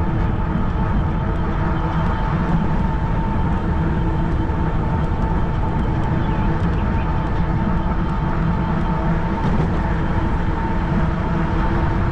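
Wind rushing over the microphone and the tyre hum of a 20-inch fat-tire electric bike cruising at about 20 mph under pedal assist, with a steady whine from its motor.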